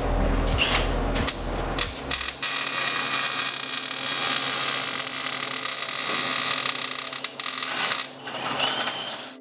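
Music with a heavy bass beat for about two seconds, then a power tool working metal: a steady, harsh noise with crackles for about six seconds, fading near the end.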